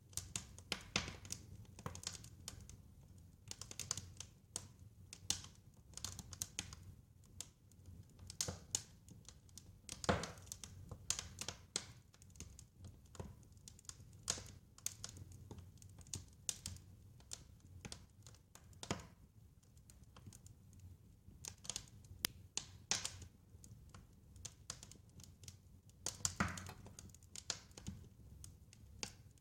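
Wood fire crackling, with irregular sharp pops and snaps over a faint low rumble; the loudest pops come about ten seconds in and again a few seconds before the end.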